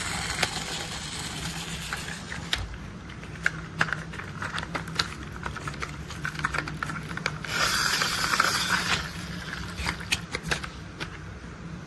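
Plastic toy construction vehicles being handled: scattered small clicks and taps, with a longer scraping rustle about eight seconds in, over a steady low hum.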